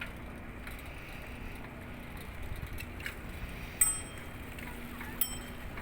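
Steady outdoor background noise with a faint hum, broken by two short, ringing metallic dings, one just under four seconds in and one just over five.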